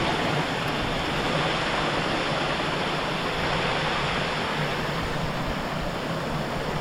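Viola Falls, a waterfall, rushing steadily and loudly with no let-up.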